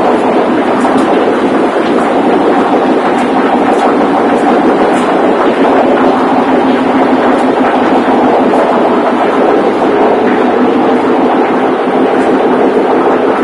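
Loud, steady din of a ship's engine-room machinery running.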